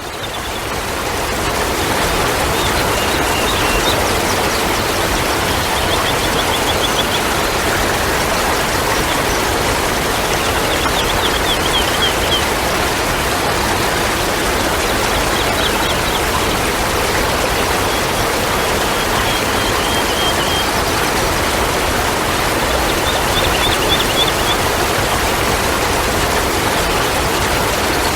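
Steady rushing of running water that fades in over the first second or two, with a short, faint, high bird trill every few seconds.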